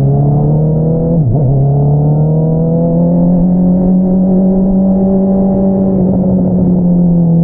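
2022 Honda CBR650R inline-four through an Akrapovič single-outlet exhaust, pulling under acceleration. The engine note rises, drops sharply for a moment about a second in with an upshift, then climbs again and holds steady, easing off slightly near the end.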